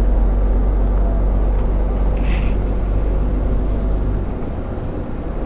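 Heavy truck driving, heard from inside the cab: a steady low engine and road rumble that eases off about four seconds in. A brief hiss about two seconds in.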